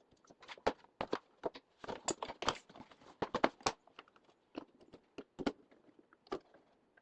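Irregular clicks, taps and light knocks of hands working on a refrigerator's thin cardboard back cover, with small rattles between them.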